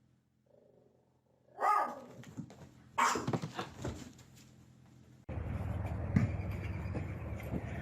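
A pet animal's short cry, falling in pitch, about a second and a half in, then a burst of knocks and scuffling at about three seconds. From about five seconds a steady background noise starts abruptly.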